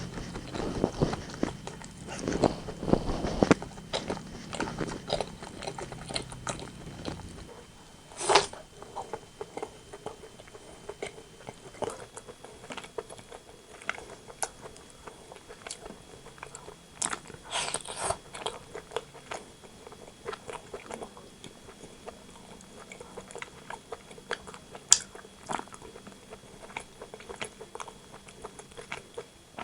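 Close-miked chewing and biting of rotisserie chicken, with many small wet mouth clicks. They are dense at first and then sparser, with louder bites or crunches about eight seconds in and again near eighteen seconds.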